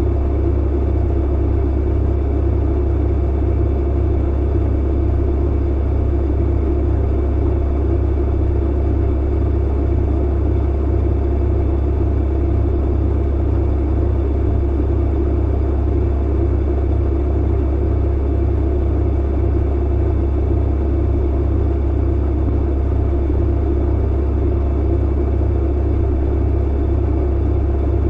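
Clothes dryer running: a steady, unchanging low hum with a mid-pitched drone above it.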